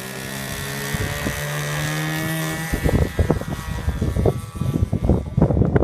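Model airplane engine running and revving up, its pitch rising slightly. About three seconds in, gusty wind buffeting the microphone takes over.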